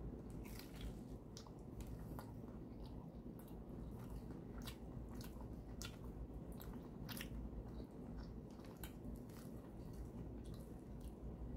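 Biting and chewing a toasted, grilled melt sandwich, with scattered small crunches and wet mouth clicks.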